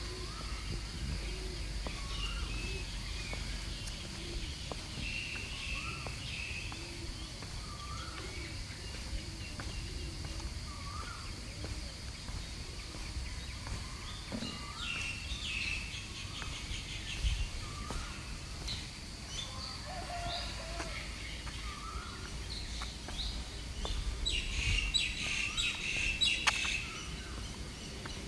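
Birds singing outdoors: a short rising note repeated about every two seconds, with higher chirps and a busier burst of twittering near the end.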